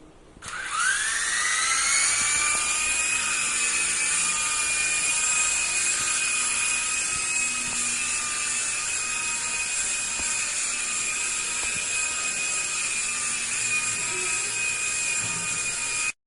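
Small electric motors of a toy IR remote-control helicopter spinning up about half a second in, rising in pitch, then holding a steady high whine.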